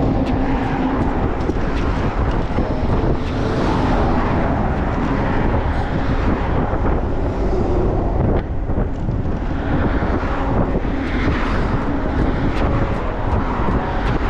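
Wind rushing over the microphone and steady road noise from a 750-watt fat-tyre electric bike ridden at full throttle, a loud, continuous rumble.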